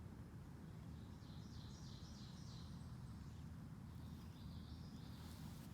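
A songbird singing faintly: a quick run of five or six short repeated high notes, then a shorter phrase about two seconds later, over a steady low rumble of outdoor background noise.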